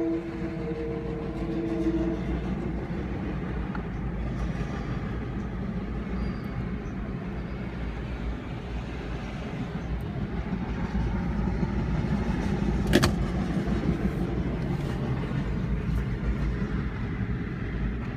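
Long Island Rail Road M7 electric train: its horn ends about two seconds in, then the train rolls past with a steady rumble, with one sharp click about thirteen seconds in.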